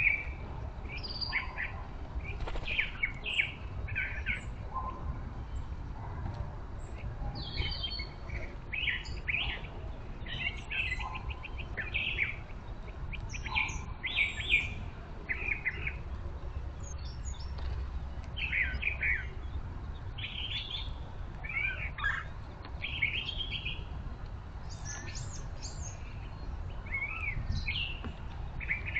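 Backyard birds chirping and calling, many short calls following one another, over a low steady rumble.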